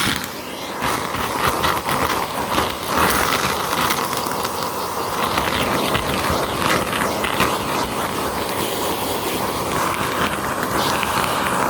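Vacuum cleaner running over carpet, with steady suction noise and a crackle of small clicks from grit being sucked up.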